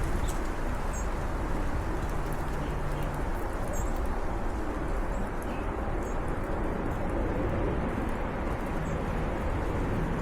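Small birds chirping now and then, short high calls over a steady low rumble of outdoor background noise.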